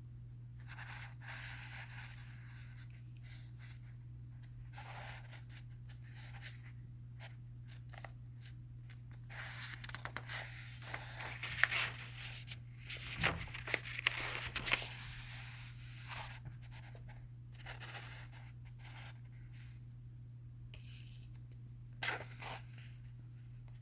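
Soft paper rustling, scraping and light clicks as a book's pages are handled and turned, busiest around the middle, over a faint steady low hum.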